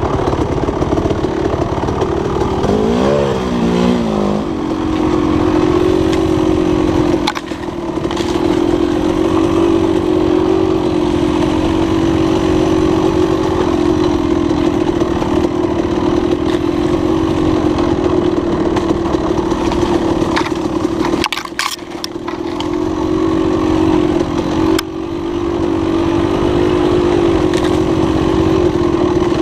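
Dirt bike engine being ridden, running at a fairly steady throttle. The revs waver up and down about three seconds in, and the engine drops off briefly about seven seconds in and again around twenty-one seconds as the throttle is closed.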